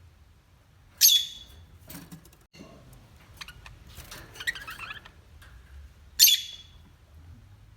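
Parrot giving two loud, harsh squawks about five seconds apart, with softer chattering and clicks between them.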